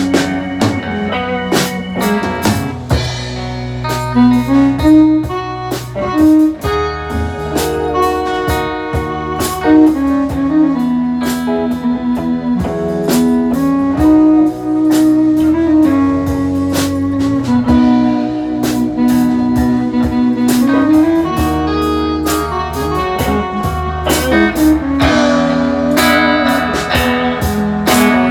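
Live band playing an instrumental passage with electric guitar over bass and drum kit, the guitar carrying a bluesy melody line.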